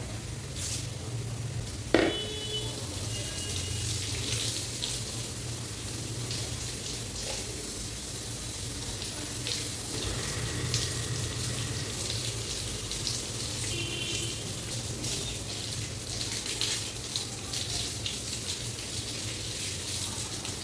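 Water from a tap running and splashing over long hair as it is washed, over a steady low hum. A single sharp knock sounds about two seconds in.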